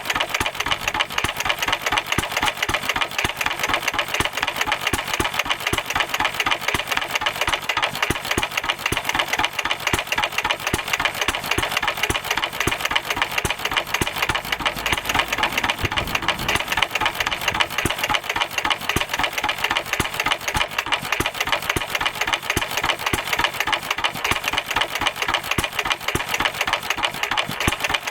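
Stuart 1/2 hp stationary engine, fitted with an extra silencer, running steadily with a rapid, even firing beat.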